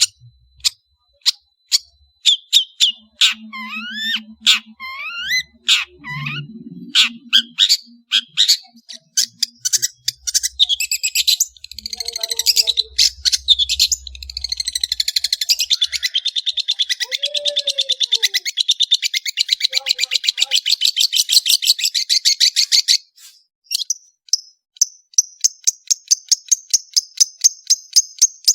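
Long-tailed shrike singing: a quick run of sharp high chirps and clicks with rising whistled glides, then a fast, dense trill lasting about seven seconds just past halfway, and rapid high chatter near the end.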